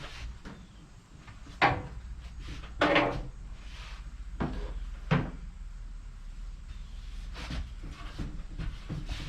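Knocks and clunks of tools and parts being handled during an engine teardown: a sharp knock about a second and a half in, a longer clunk around three seconds, another knock about five seconds in, with lighter clicks between.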